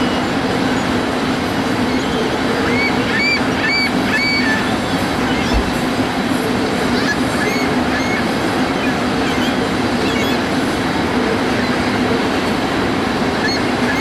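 Freight train of tank cars rolling past steadily: a continuous rumble and hum of wheels on rail, with short high squeaks scattered through it, a cluster of them between about three and four and a half seconds in.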